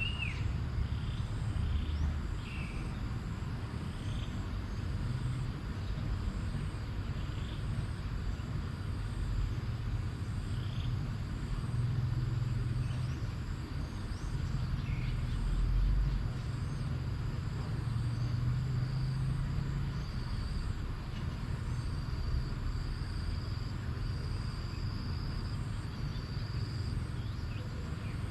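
Outdoor nature ambience: a steady low rumble with short bird chirps every second or two, and a faint high insect drone coming in about two-thirds of the way through.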